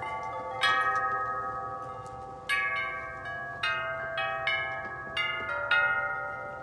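Wind chimes stirred by the wind, struck about six times at uneven intervals, each chord of bell-like notes ringing on and slowly fading into the next.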